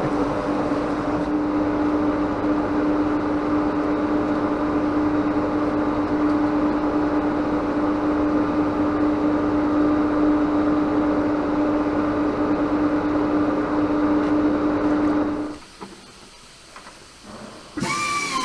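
Tyre buffing tool running steadily with a constant whine, roughing the rubber inside a tyre so that a puncture patch will bond. It stops about three seconds before the end, and music starts just at the end.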